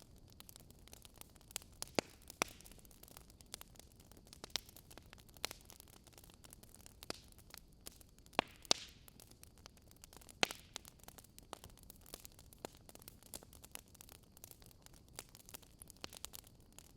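Campfire crackling softly: irregular sharp snaps and pops of burning wood over a faint steady hiss, with the loudest pops about two seconds in and just past the middle.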